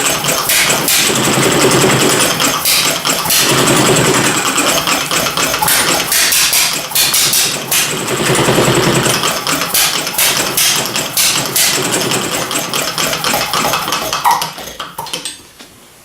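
Homemade inverted vertical hit-and-miss gas engine running, a rapid mechanical clatter with heavier lumps every two to three seconds. The sound falls away sharply near the end.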